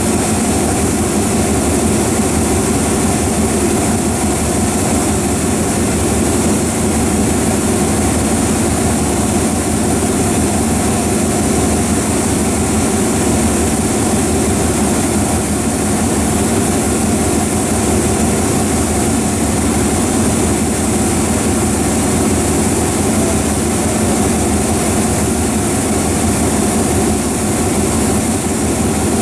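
Steady mechanical drone of a diesel train's machinery running unchanged, a low hum over a hiss, with no rail clatter.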